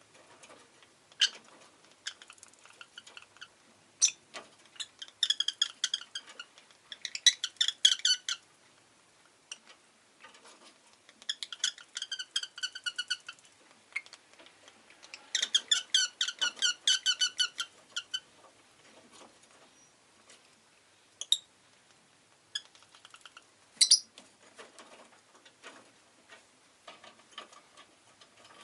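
Rosy-faced lovebird chirping: three runs of rapid, high chirps lasting a few seconds each, with single sharp calls between them.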